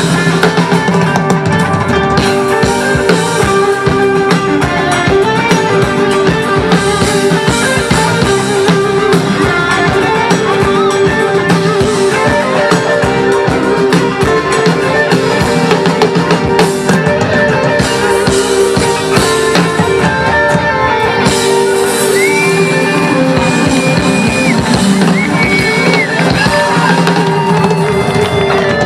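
Live rock band playing an instrumental passage, with guitar and drum kit.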